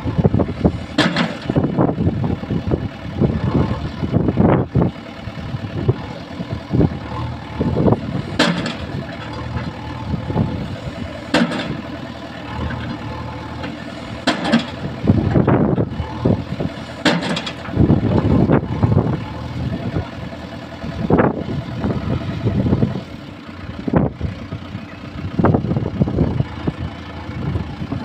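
A heavy diesel machine's engine runs steadily, broken about a dozen times by short, loud, sharp sounds.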